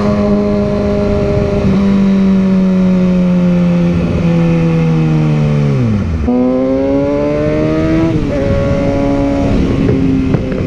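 Motorcycle engine running under way, its note sinking slowly, then dropping and jumping back up about six seconds in like a gear change, with another small step about eight seconds in.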